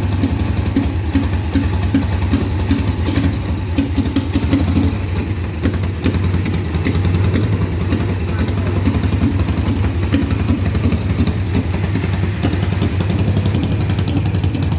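Mazda B600's engine idling steadily, with a fast, even exhaust pulse.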